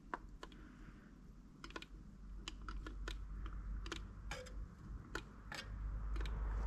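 Scattered light clicks and taps, about fifteen at an uneven pace, from small metal parts being handled and set in place on an engine's cylinder head during a camshaft and tappet rebuild.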